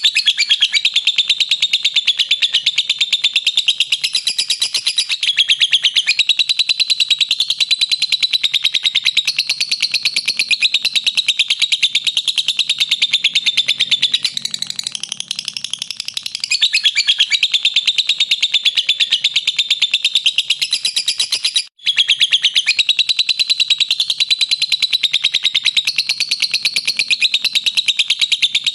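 Lovebird giving its long 'ngekek' song: an unbroken, rapid, high-pitched chattering trill of many notes a second, the sustained ngekek of a bird in full song. It drops out for a moment about three quarters of the way through, then carries straight on.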